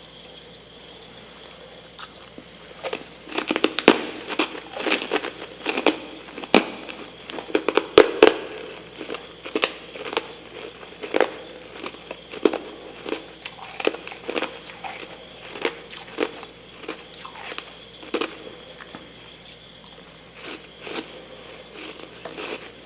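Close-up chewing of soft freezer frost mixed with humidifier frost: a run of crisp, irregular crunches that begins about two and a half seconds in. The crunches are thickest over the next few seconds, then come further apart.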